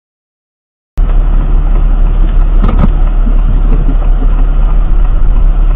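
Loud, steady low rumble of a vehicle's engine and road noise as picked up by a dashcam, cutting in abruptly about a second in after dead silence.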